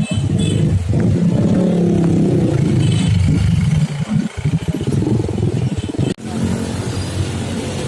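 Road traffic at close range: motorcycles and cars running past, with engines revving up about a second in. The sound breaks off briefly around six seconds in.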